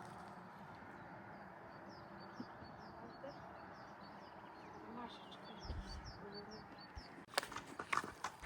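A small songbird singing two runs of short, high, quickly repeated chirps, faint against a low background hiss. A few sharp knocks come near the end.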